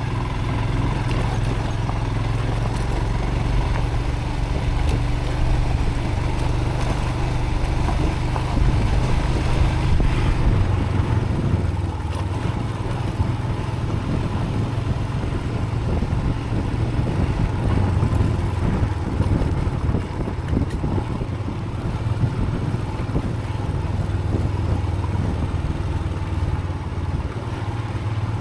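Motorcycle engine running steadily as the bike rides a rough off-road track, picked up by a helmet chin-mounted camera along with wind and road noise; it grows a little louder about a third of the way in.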